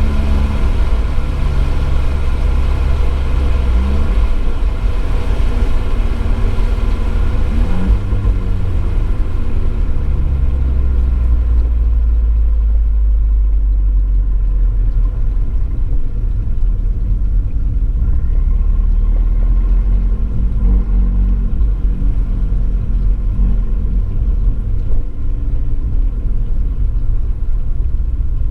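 Abarth 595 Esseesse's turbocharged 1.4-litre four-cylinder running through an Akrapovič exhaust at speed on a wet track, picked up by a microphone in the boot under a heavy, steady low rumble. The higher part of the sound fades after about twelve seconds.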